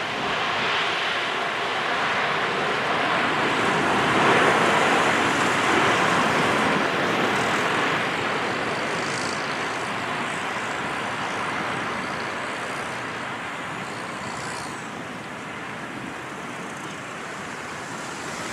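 Boeing 757-200's jet engines: a broad rushing roar that swells about four seconds in and then slowly fades away.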